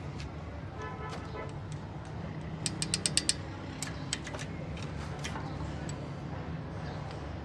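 A steady low mechanical hum, with a quick run of about seven sharp metallic clicks about three seconds in, from work on a Suzuki Mehran engine's valve gear.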